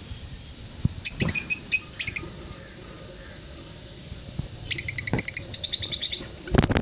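Lovebirds chirping in fast runs of high, repeated notes: a short run about a second in and a longer one near the end. A few low knocks come in between, the loudest just before the end.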